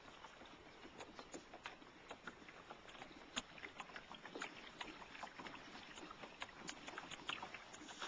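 Faint water sounds around a kayak: light lapping against the hull with many scattered small ticks and drips.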